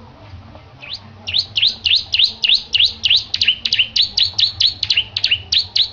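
Bar-winged prinia (ciblek) singing: a fast, loud run of repeated notes that each sweep down in pitch, about four a second, starting about a second in.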